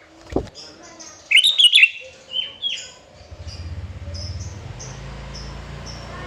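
Sooty-headed bulbul singing: a quick burst of loud chirping phrases about a second in, then two shorter notes, with faint high chirps going on after. A brief low thump comes just before the song, and a steady low hum sets in about halfway through.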